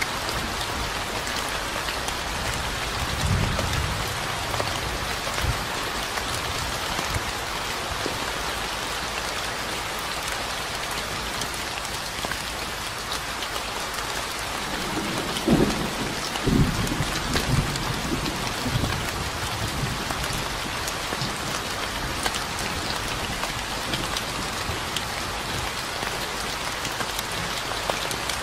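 Steady rain falling, with low rumbles of thunder about three seconds in and again, louder, from about fifteen to nineteen seconds.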